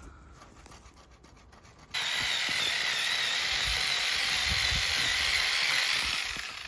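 A saw cutting through an apple tree branch during pruning: a steady rasping noise that starts suddenly about two seconds in, lasts about four seconds and fades out near the end.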